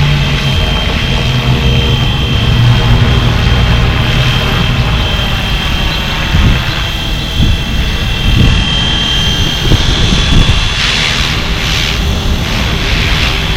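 Flywing FW450 V3 electric RC helicopter in flight: a steady high whine from the motor and rotors over a low, uneven rumble, with a few hissy surges near the end.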